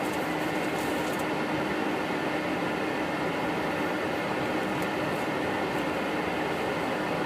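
Steady cockpit noise of a Boeing 777 taxiing: an even rush of air-conditioning and fan noise with a faint steady hum underneath.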